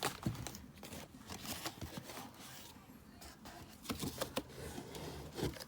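Irregular rustling and crinkling handling noises with scattered clicks and light knocks, busiest about four to five seconds in.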